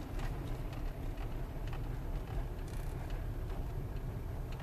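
Cabin noise inside a Lada Granta liftback: a steady low rumble with a few faint light ticks, and no dashboard squeaks or rattles.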